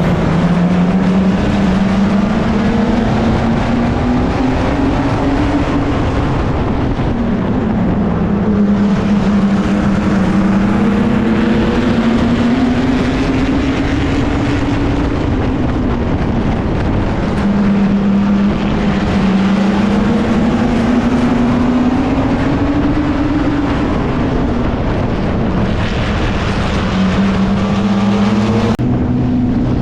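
Racing mini truck's engine heard from its roof while lapping an oval: the revs climb for several seconds down each straight and drop back into each turn, about every eight seconds. Shortly before the end the sound cuts abruptly to a steady engine note.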